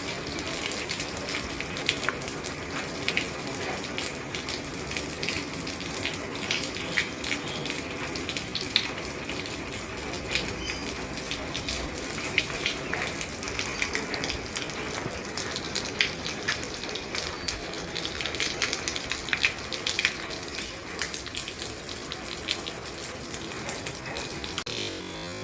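Rain falling on an old roof: a steady hiss of rain with many sharp drop strikes scattered through it.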